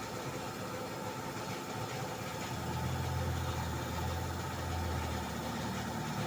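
A machine running with a steady hum. A stronger low drone comes in about two and a half seconds in.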